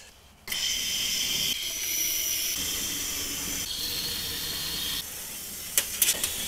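Aerosol can of creeping cavity-wax spray hissing steadily through its extension tube as it is sprayed into bare-metal body cavities to slow corrosion. The hiss starts about half a second in and weakens a little near five seconds, with a few sharp clicks near the end.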